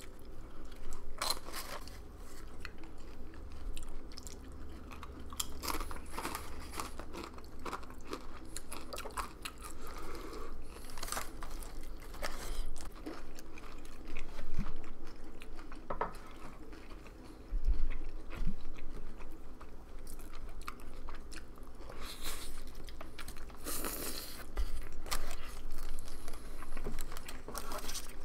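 Close-miked chewing and biting of Mexican food: crunching a tortilla chip and chewing bites of a burrito, with irregular crisp crunches throughout.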